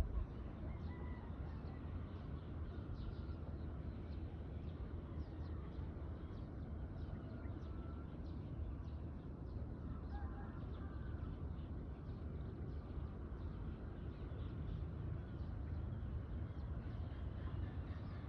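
Small birds chirping and singing faintly, many short calls scattered throughout, over a steady low rumble.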